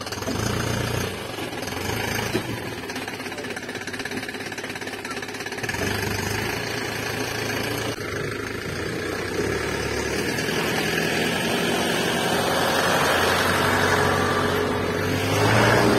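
Truck engine running steadily with a knocking rumble, growing louder and rising in pitch near the end.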